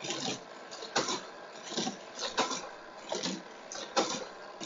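Toy Hot Wheels car running on a plastic race track, clattering in a string of short bursts, about one or two a second.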